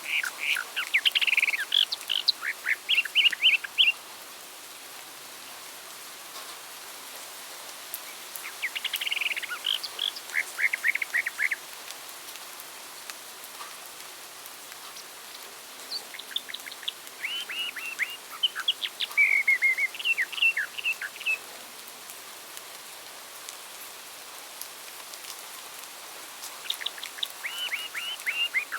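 Songbirds singing in bouts of rapid chirping notes, four bursts a few seconds long with gaps of several seconds between them, over a steady background hiss.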